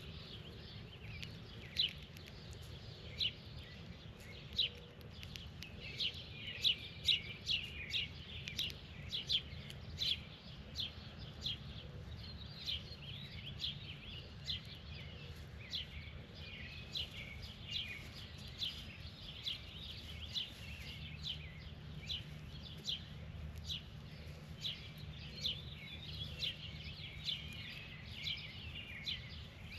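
Birds chirping: short, sharp chirps come one or two a second throughout, over a steady low rumble.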